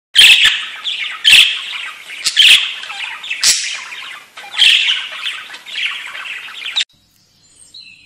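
A bird squawking loudly in a series of harsh calls, each starting sharply, about one a second, stopping abruptly about seven seconds in.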